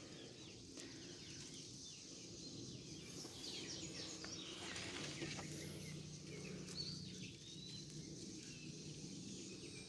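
Quiet outdoor ambience: a steady faint high hiss with scattered faint bird chirps.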